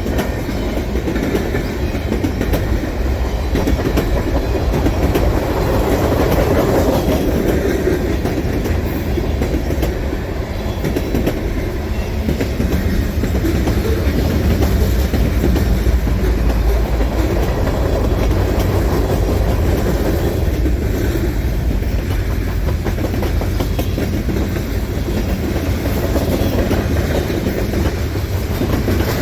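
Freight cars of a long mixed manifest train rolling past at speed: a steady low rumble of steel wheels on rail with a continuous clickety-clack of wheels over joints.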